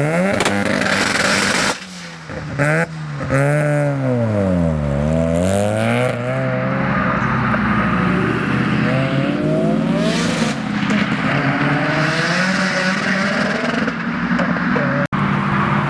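Car engine revved hard: it climbs, drops away briefly with a couple of sharp pops, then swoops down and back up in pitch. After that it holds high, wavering revs.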